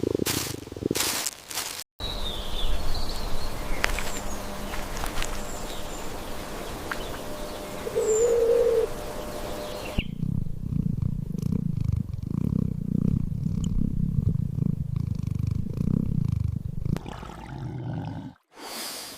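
A cat purring with a low, pulsing rhythm for about seven seconds in the second half. Before it there are a few knocks, then a stretch of steady noise with a few short high chirps.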